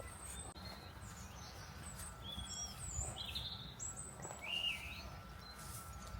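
Several small songbirds chirping and singing, with short calls and quick pitch glides scattered throughout, over a faint low background rumble.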